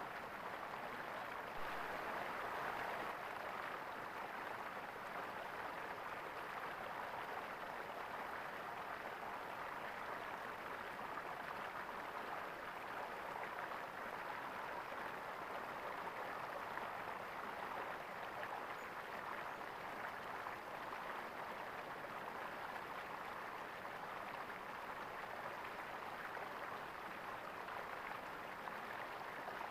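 Water gurgling steadily in a stream, briefly a little louder about two seconds in.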